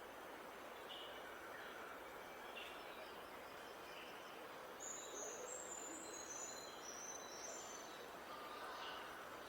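Wild songbirds calling over a steady background hiss: short chirps about once a second, and a high, fast twittering song phrase for a few seconds around the middle.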